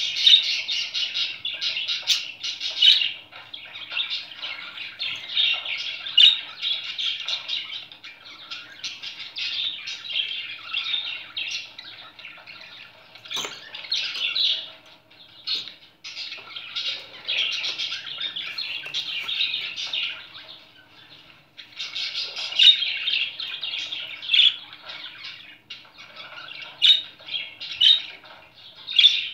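Budgerigar chattering and warbling almost without a break, a fast run of chirps and squawks with a few short pauses.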